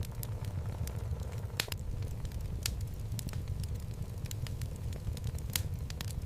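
Wood fire burning in a fireplace: a steady low rumble of flames with irregular sharp crackles and pops from the burning logs, a few louder pops among them.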